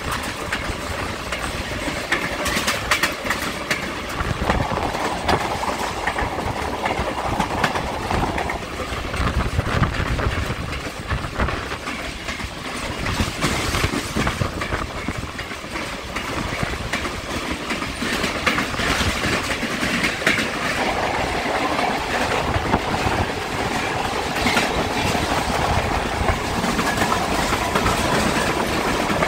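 Passenger train rolling along the track, heard from aboard: a steady rumble of steel wheels on the rails, with frequent clicks and clacks.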